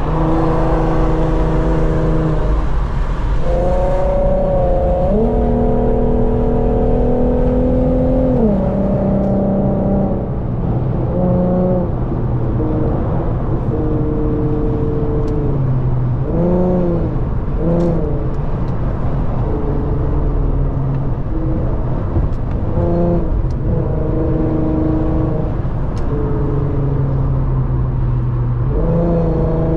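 Car engine and exhaust running loud under hard driving, the pitch climbing and dropping several times with the revs over a steady road rumble.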